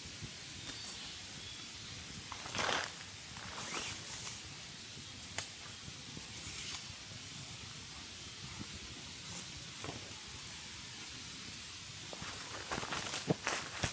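Quiet outdoor ambience with a steady hiss and a few brief rustling swishes and a sharp click. Near the end a run of crunching clicks and rustles begins.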